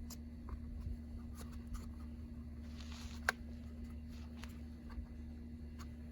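Light clicks and rubbing as parts are handled during seat belt latch work, with one sharper click about three seconds in, over a steady low hum.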